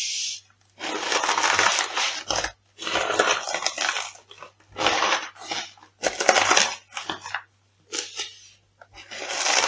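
Food being crushed underfoot: a series of crunching, crackling bursts, each lasting about a second, with short pauses between them.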